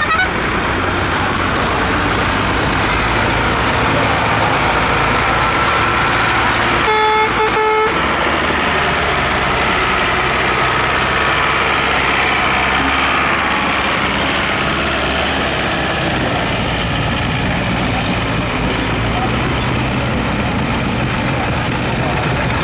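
Tractor engines running steadily, with one horn blast of under a second about seven seconds in.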